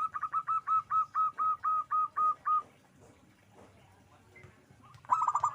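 Zebra dove (perkutut) calling: a quick run of about a dozen short, hooked notes, roughly five a second, over the first two and a half seconds. A second, denser burst of notes starts near the end.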